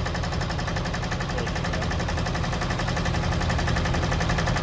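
Engine running steadily with an even, rapid firing beat, growing a little louder near the end.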